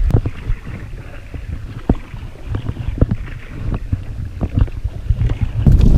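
Scattered knocks and handling sounds on a plastic kayak over water, with a low rumble of wind on the microphone that gets much louder near the end.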